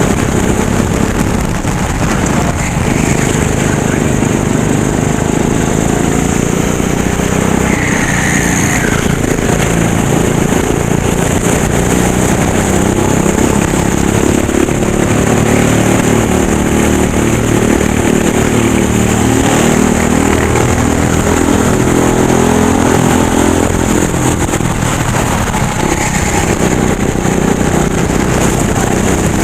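Racing kart engine running flat out, its pitch rising and falling over and over as the throttle opens and closes.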